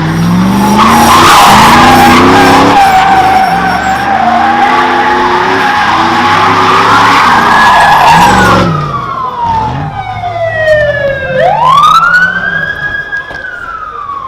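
A car doing donuts: engine revving with tyres squealing, cut off suddenly about two thirds of the way in. Then a police siren wails, falling in pitch, rising again and falling.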